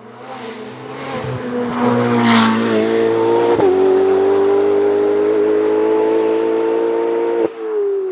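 Hillclimb race car accelerating hard past, its engine climbing in revs, snapping through an upshift about three and a half seconds in, then holding a loud steady high-rev note until the driver lifts off sharply near the end.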